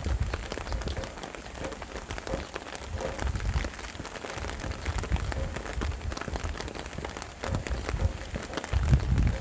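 Steady rain, many drops pattering, with wind buffeting the microphone in gusts as a low rumble that swells strongest near the end.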